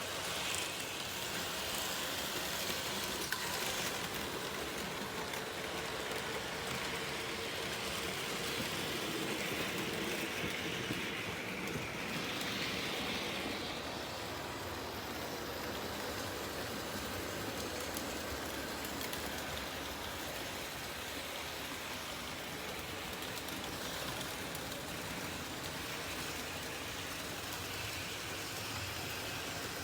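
Märklin HO model locomotive running on its track: a steady whir and rattle of the motor and of the wheels rolling on the rails.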